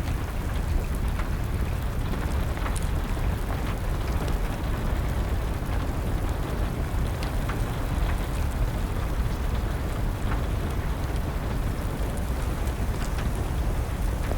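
Steady rain with a low rumble, and a wood fire crackling with scattered small sharp pops.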